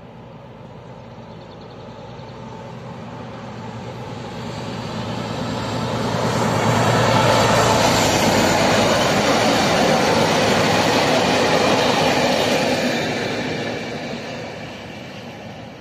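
Freight train passing close by, its wheels running on the rails: the noise builds over several seconds, stays loud for about six seconds while the wagons go past, then fades as the last wagon passes.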